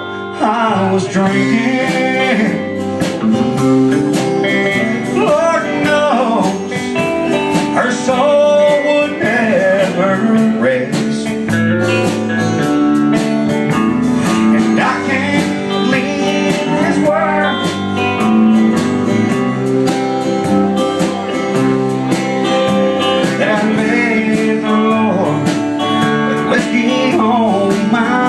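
Country band playing an instrumental break: lead guitar with bent, gliding notes over steady strummed guitar and a rhythm section.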